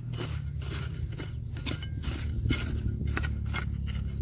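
Irregular clinks and scrapes of a metal digging tool against stones and gravel, several a second, over a steady low rumble.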